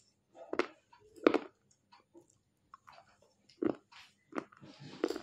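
Chewing a bite of smoky baked clay roll (edible clay): a handful of separate sharp crunches with short pauses between them, the loudest about a second in.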